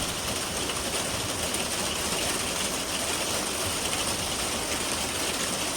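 Steady rain during a thunderstorm: an even rushing hiss with no single drops or thunder standing out.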